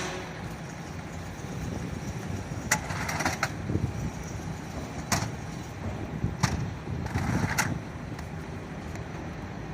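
A vehicle engine running steadily with a low rumble, with several sharp knocks spread through it.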